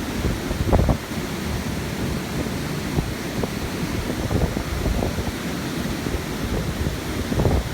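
Wind buffeting the microphone in gusts, a rough low rumble that swells about a second in and again near the end.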